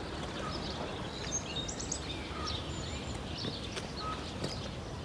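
Outdoor rural ambience: small birds chirping and whistling in short calls over a steady low background noise.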